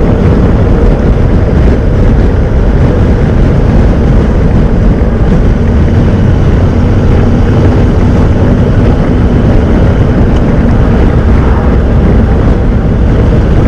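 Honda NC750X motorcycle's parallel-twin engine running steadily while riding, with wind noise over the microphone; the sound is loud and even throughout.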